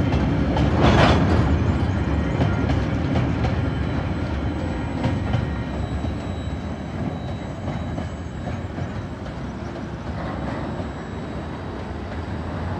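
Coal hopper wagons of a freight train rolling past over a level crossing, the wheels clacking over the rails, briefly louder about a second in. The sound fades steadily as the end of the train draws away.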